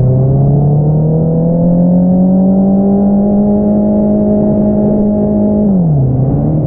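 2022 Honda CBR650R's inline-four engine through an Akrapovič single-outlet exhaust, pulling under acceleration: the pitch climbs steadily for about two seconds and holds. Near the end the revs drop sharply and then settle at a lower steady pitch.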